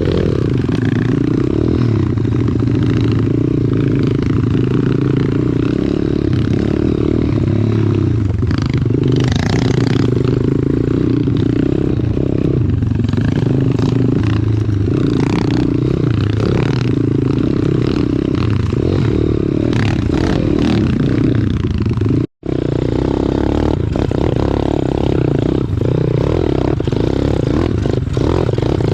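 Single-cylinder pit bike engine running under way, with clatter and scraping. There is a momentary gap about three-quarters of the way through.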